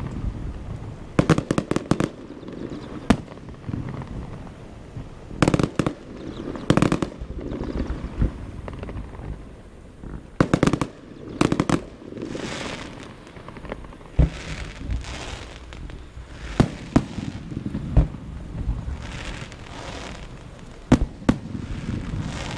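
Fireworks going off: sharp bangs, some in quick clusters, and from about halfway several longer bursts of crackling.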